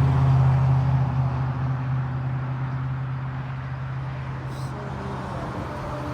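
A motor vehicle's low engine hum, loudest at the start and fading over the first couple of seconds, then continuing steadily at a lower level.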